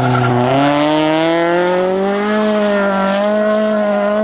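Race car engine at high revs under hard acceleration, its pitch climbing steadily through the first half and then holding high.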